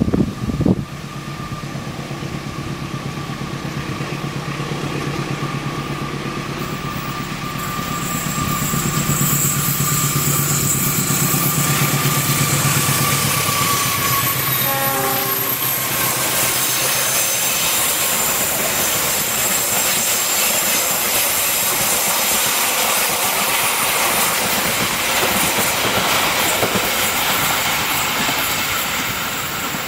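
Diesel locomotive hauling a passenger train approaches and passes close by, its engine hum building over the first half. It is followed by a long line of carriages rolling past with steady, loud wheel-on-rail noise to the end.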